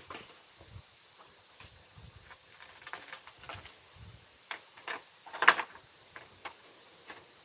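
Scattered light knocks and clatters of wood being handled during building work, the loudest a sharp clack about five and a half seconds in.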